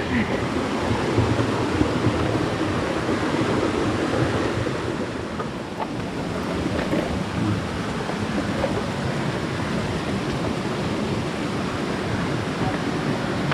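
Small waterfall running steadily with a light flow: a continuous rushing splash of water into a shallow pool.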